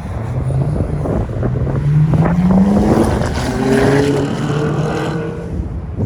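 A car accelerating hard, its engine pitch climbing, dropping at an upshift about three seconds in and climbing again before it levels off. Wind buffets the microphone throughout.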